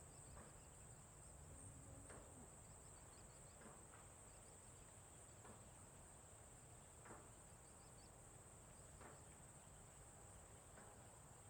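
Faint, steady high-pitched trilling of crickets, with a few faint short higher chirps now and then.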